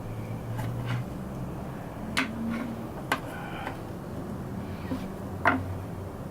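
Light clicks and knocks of small tools and parts being handled on a workbench, scattered about six or seven times over a steady low hum, the sharpest knock near the end.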